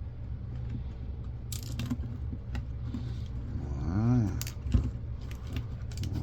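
Scattered sharp clicks and clinks of small metal and plastic parts being handled while an old camcorder is taken apart, over a steady low hum.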